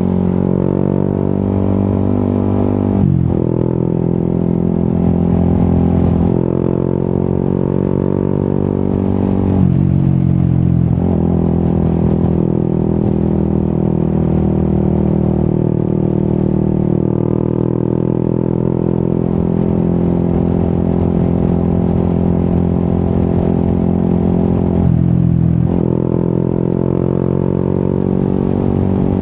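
Yamaha XSR 155's single-cylinder engine running through an Akrapovic exhaust while riding, its pitch slowly rising and falling. There are three brief breaks in the engine note as gears change, about three seconds in, about ten seconds in and near the end.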